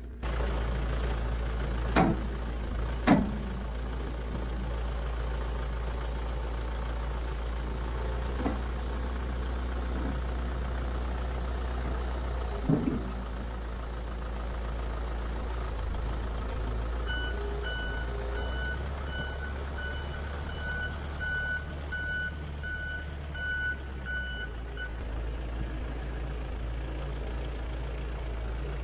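Backhoe engine running steadily, with a few sharp knocks in the first half. Past the middle its reversing alarm beeps about twice a second for several seconds, then stops.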